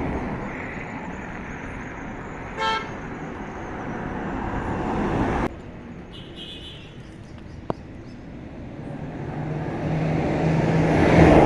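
Passing road traffic: a vehicle horn gives a short toot about three seconds in, and later a vehicle approaches, its sound swelling to a peak at the end.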